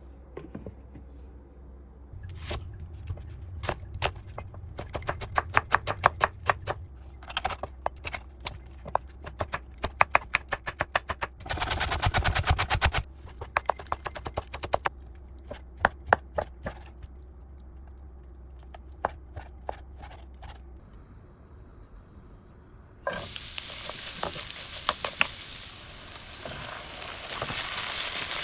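Kitchen prep: a long run of quick taps and scrapes of utensils against a board or pan, then after a short lull a steady sizzle as food starts frying in hot oil.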